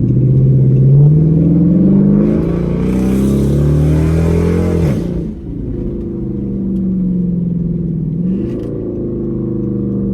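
Car engine and modified exhaust pulling hard under acceleration, the pitch climbing and dropping back at gear changes about two and five seconds in, then climbing again. There is a loud rush of exhaust noise from about three to five seconds. The exhaust has a freshly fitted H-pipe.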